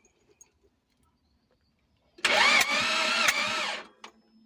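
Starter motor cranking a Daihatsu Gran Max 1.3 engine for about a second and a half during a compression test on cylinder 1; it begins about two seconds in and then stops. The engine is cranked, not started, so that the gauge can read the cylinder's compression.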